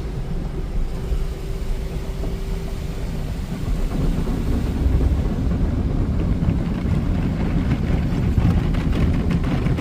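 Broadway all-cloth car wash machine heard from inside the car, a steady rumble of motors with cloth strips and brushes rubbing and slapping on the car body. A faint steady hum fades about three and a half seconds in, and the washing grows louder from about four seconds.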